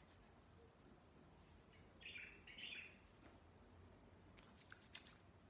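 Near-silent room tone with a bird chirping faintly twice about two seconds in, and a few soft clicks near the end.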